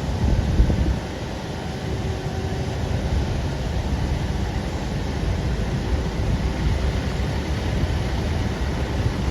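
Truck engine running steadily with a dense low rumble, and a brief louder bump about half a second in.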